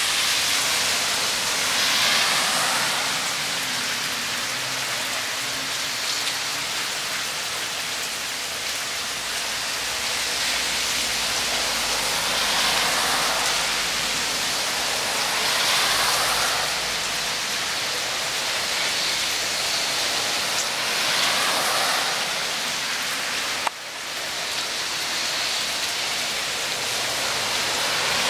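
Heavy rain pouring down, a steady hiss that swells and eases every few seconds.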